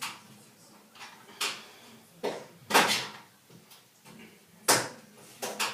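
Sharp clicks and knocks of a screwdriver working plastic fittings at a washing machine's water inlet, about six in all, the loudest a little under three seconds in.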